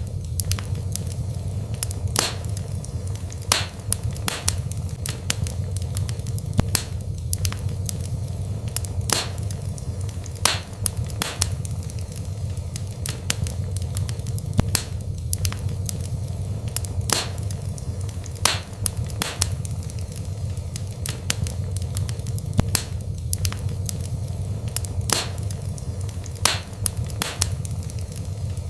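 Wood fire burning in a fireplace: a steady low rumble of flames with sharp, irregular crackles and pops of burning logs several times a second.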